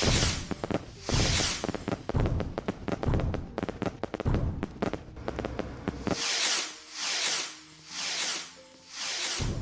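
Fireworks going off: dense crackling and quick bangs for about six seconds, then a run of hissing whooshes, about one a second.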